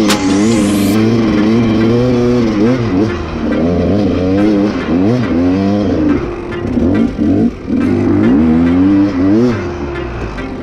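Dirt bike engine revving up and falling back repeatedly while riding, its pitch climbing and dropping every second or two, with a brief dip about seven seconds in.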